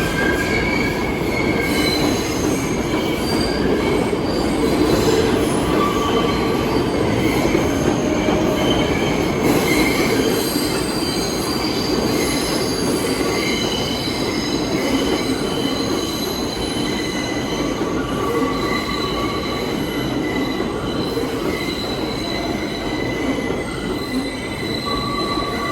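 New York City subway train on the Lexington Avenue line running through the station with a steady rumble, its wheels squealing against the rails in many short high-pitched squeals throughout.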